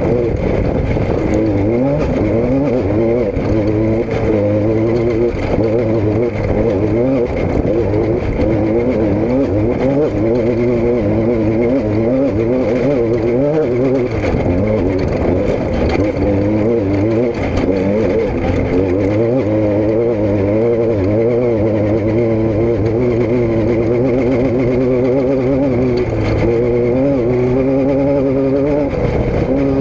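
Car engine running, its pitch wavering up and down continuously as engine speed changes slightly.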